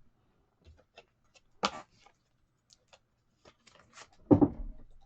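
Trading cards being handled at a table: scattered faint clicks and rustles, a sharp tick a little under two seconds in, and a louder low knock near the end.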